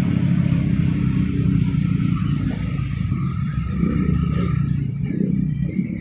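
Heavy truck's diesel engine running steadily, a loud low drone.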